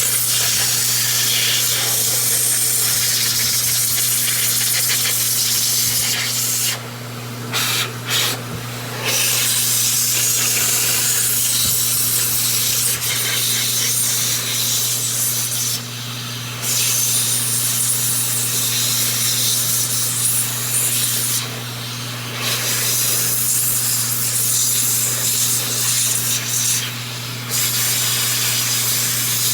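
A jet of air hissing steadily as excess clipper oil is blown out of dog-clipper blades, with a steady motor hum underneath; the air cuts out briefly about five times and starts again as each blade is moved.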